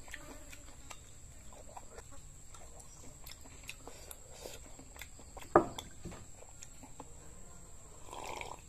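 Close-up eating sounds of raw beef being chewed: scattered wet mouth clicks and lip smacks, with one louder smack about five and a half seconds in.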